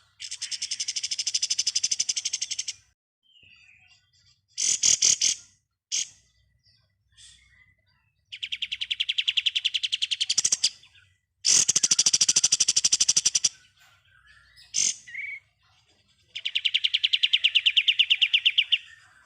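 Kapas tembak songbird singing long, rapid rattling trills ('ngebren'), four trills of two to three seconds each, with a few short calls between them.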